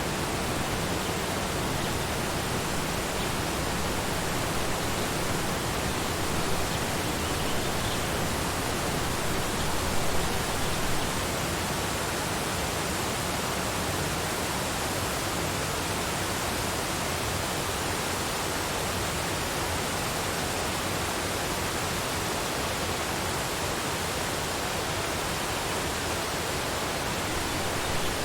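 Waterfall: a steady, even rush of falling water, with small swells in loudness now and then.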